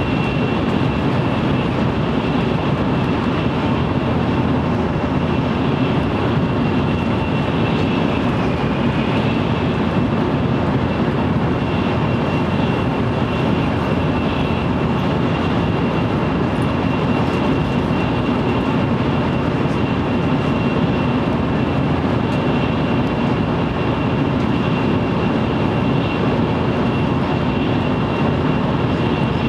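Interior running noise of an N700 series Shinkansen, heard from inside a motor car with the microphone resting on the window ledge. A steady rumble and rush runs under a thin high whine that holds throughout.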